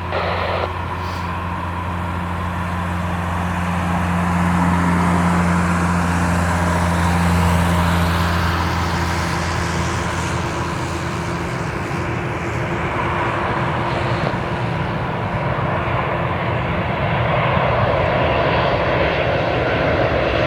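An airliner's engines running loud and continuous, swelling a few seconds in and holding, with a high whine that rises and then falls in the middle.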